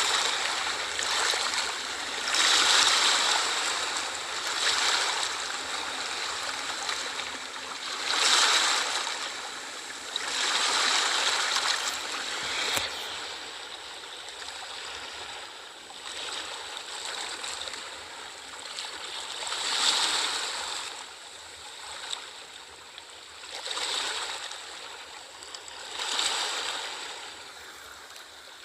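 Ocean waves washing in and drawing back, each wave a surge of hiss that swells and fades, several seconds apart.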